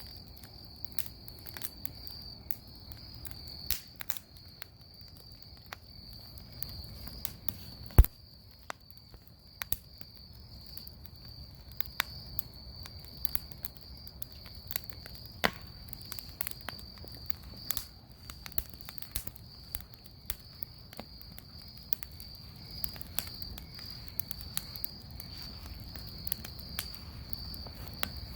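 Wood bonfire crackling, with scattered sharp pops, the loudest about eight seconds in, over a steady high chirring of insects.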